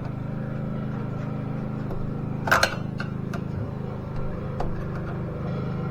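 A single sharp metallic click about two and a half seconds in, with a few fainter ticks, over a steady low mechanical hum.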